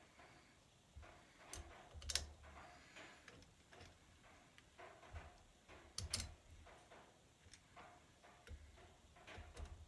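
Faint, irregular light clicks and taps, as of small hard parts being handled, with the sharpest clicks about two and six seconds in.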